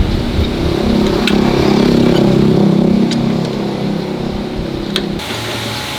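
An engine running, its speed and loudness rising about a second in and easing off after about three seconds, with a few sharp clicks over it.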